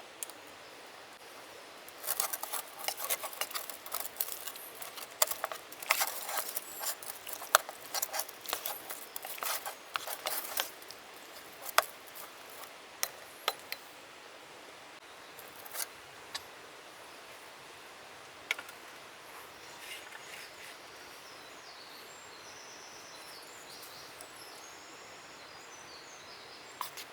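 Camp food-prep handling sounds: a rapid run of crisp cutting and crinkling clicks for about nine seconds, thinning to scattered single clicks. Faint bird chirps come in later over a steady quiet background.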